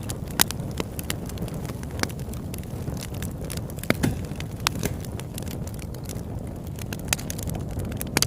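Campfire crackling: irregular sharp pops and snaps over a steady low rumble, with a couple of louder pops about four seconds in.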